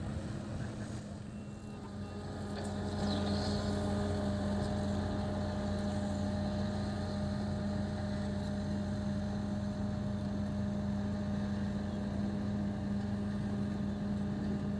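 Diesel engine of a heavy road-construction machine running steadily with a low hum. It grows louder about two to three seconds in, then holds steady.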